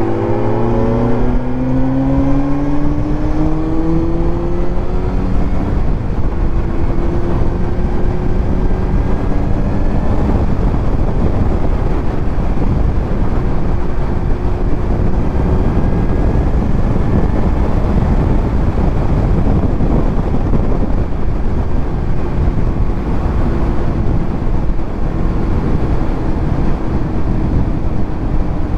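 Kawasaki Z900's inline-four engine through a titanium Arrow exhaust while riding: the engine note rises through the revs over the first few seconds, then holds fairly steady at cruise, over heavy road and wind rush.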